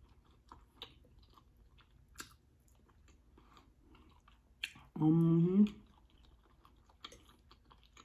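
Close-up chewing of a mouthful of food, with a few small clicks. About five seconds in comes a short, loud, closed-mouth "mmm" hum of enjoyment that rises in pitch at its end.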